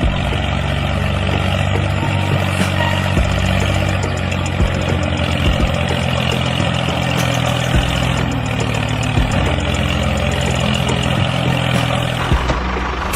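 Engine running steadily with a fast, even rhythm, as of a small engine idling, dropping a little in level near the end.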